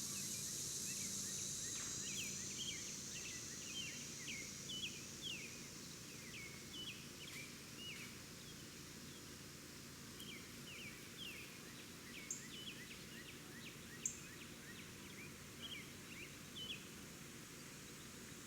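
Small birds chirping repeatedly in short, quick calls over a quiet outdoor background, with a steady high hiss that fades out in the first two seconds.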